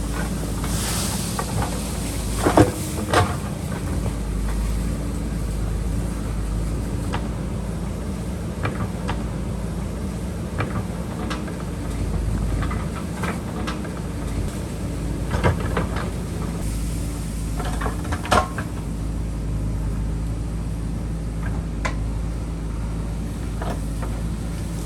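JCB backhoe loader's diesel engine running steadily while it digs, with scattered sharp knocks and clanks over it. The loudest knocks come about two and a half and three seconds in, and again around fifteen and eighteen seconds.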